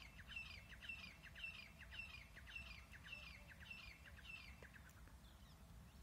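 A bird calling faintly: one short, high note repeated evenly, about eight times at roughly two a second, stopping about four and a half seconds in.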